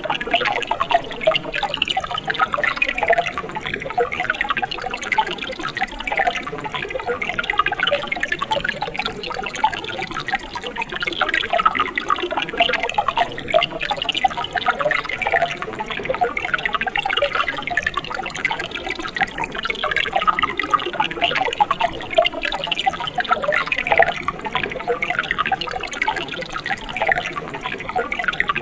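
Mountain stream water trickling and splashing over rocks, a steady babble of small splashes.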